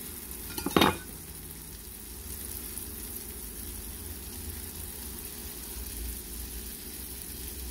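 Cheese frying in oil in a frying pan, a steady faint sizzle over a low hum. A brief sharp sound stands out about a second in.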